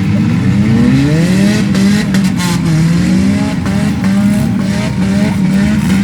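Demolition derby car engines revving, their pitch rising and falling repeatedly, with more than one engine heard at once.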